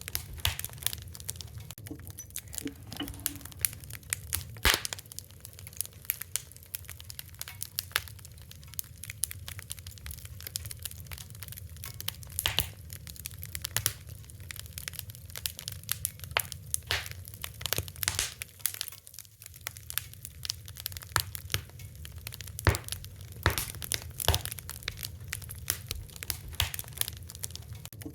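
Wood fire crackling: irregular sharp pops and snaps, some louder, over a steady low rumble of burning.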